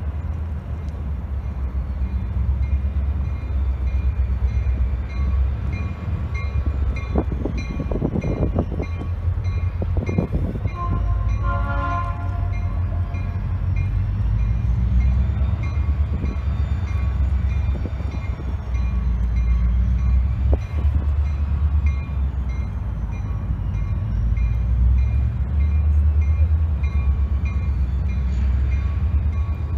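Diesel freight train passing with a steady low rumble from its locomotive engines and rolling cars. About twelve seconds in, a brief pitched tone sounds over the rumble.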